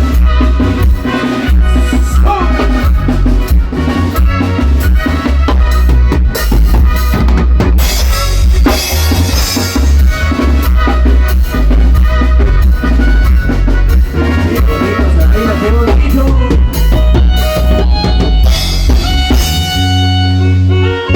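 Band music with a drum kit, bass drum and snare keeping a steady beat under bass and other pitched instruments.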